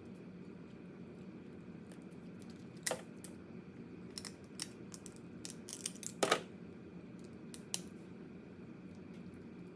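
Crab shell being cracked and picked apart: a few scattered sharp clicks and cracks, the loudest in a cluster about six seconds in, over a steady low background hum.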